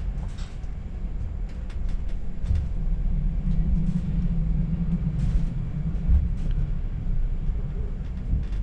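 Running noise of a passenger train heard from inside the carriage: a steady low rumble of wheels on rail, with scattered light clicks and rattles.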